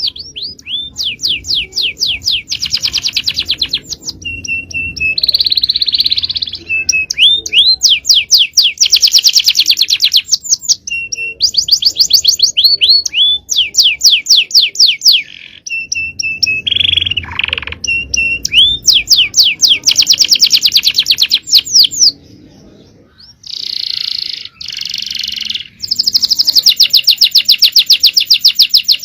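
Male domestic canary singing a long, loud song of rapid trills, each phrase a fast run of repeated high notes. A short slurred note or a brief pause separates the phrases, and there is a longer quieter gap about two-thirds of the way through.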